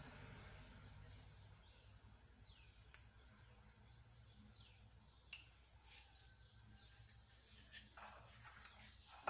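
Near silence, with faint bird chirps: short calls falling in pitch, repeating on and off. Two light clicks break in, about three and five seconds in.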